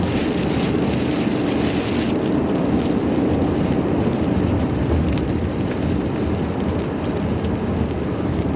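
Steady road and engine noise of a moving car, heard from inside the cabin; a high hiss over it drops away about two seconds in.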